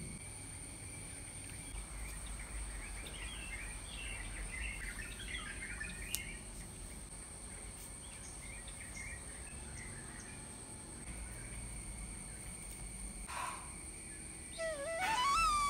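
Small birds chirping in scattered bursts over a steady, thin, high-pitched whine. Near the end a flute-like musical tone glides up and holds.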